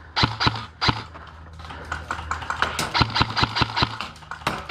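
Airsoft gun firing sharp single shots in quick strings: a few shots in the first second, then a fast run of about six or seven shots around three seconds in.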